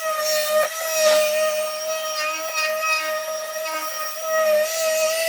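A small electric motor running at a steady high whine, with a few light knocks over it.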